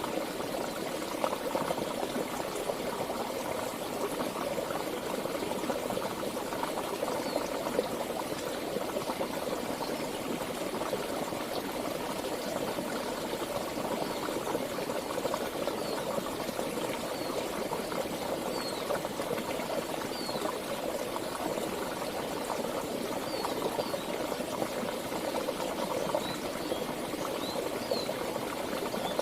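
Flowing river water, a steady, even rush. Faint short high chirps come through now and then.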